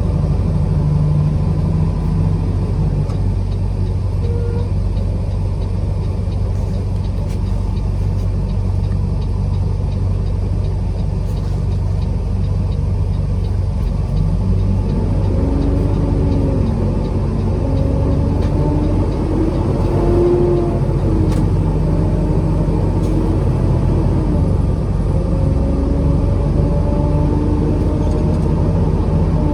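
Truck driving on the road: a steady low engine and road rumble. In the second half, pitched engine tones rise and fall.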